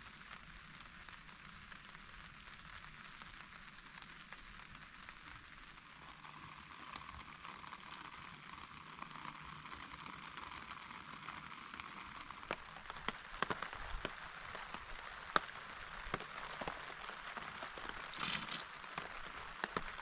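Rain falling on a tarp: a steady hiss that grows denser after a few seconds, with more and more separate drop hits in the second half and one brief louder hiss near the end.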